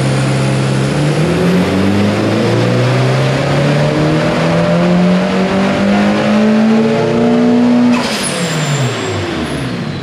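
Turbocharged SR20DET four-cylinder of a Nissan 240SX S14 making a full-throttle pull on a chassis dyno, under load at about 15 psi of boost: the revs climb steadily for about seven seconds, then the throttle shuts abruptly and the revs fall away.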